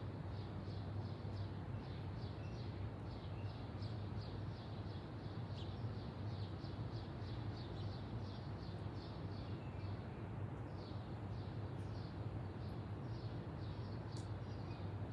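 A small bird chirps over and over, short high chirps about three a second with a brief pause about ten seconds in. Under it runs a steady low hum.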